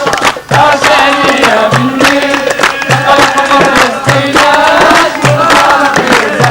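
A group singing a chant together, with hand drums beating a steady rhythm of strokes about a second apart; the sound dips briefly about half a second in.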